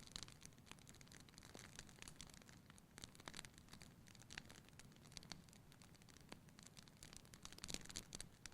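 Wood fire in a fireplace crackling, with irregular small pops and snaps over a faint hiss, a few louder clusters of pops near the start, about three seconds in and near the end.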